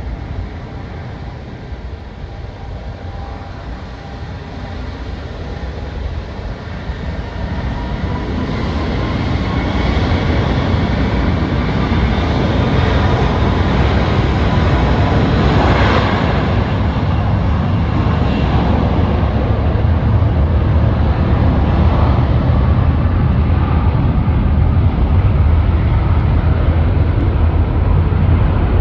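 Airbus A330 jet engines running, a deep rumble that grows louder over the first dozen seconds and then holds steady, with a faint whine above it.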